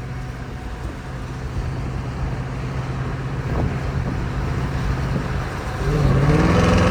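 Jeep Grand Cherokee Trackhawk's supercharged V8 running while driving, a steady low hum that rises in pitch and gets louder about six seconds in as the engine revs up to accelerate.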